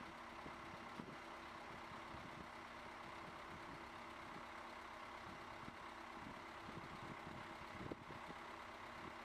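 Faint, steady hum of machinery, like an engine idling, with a couple of light ticks.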